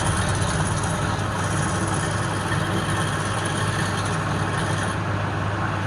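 Wood lathe running steadily: a low motor hum under an even rushing noise.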